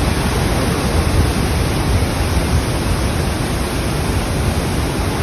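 Steady, loud rush of a large waterfall: a dense, even water noise, heaviest in the low end, with no breaks.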